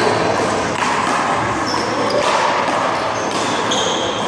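Small rubber handball being struck and bouncing off the wall and pavement during a one-wall handball rally: a few sharp knocks over a steady noisy background.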